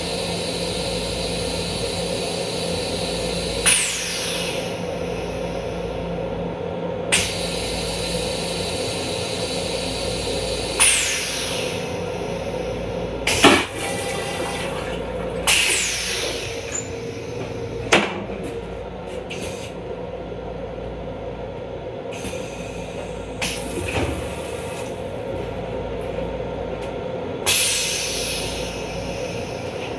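Steady running noise of a Long Island Rail Road M7 electric railcar heard inside its restroom, with a constant hum. Sharp clunks and knocks rise above it every few seconds, some with a short falling hiss after them.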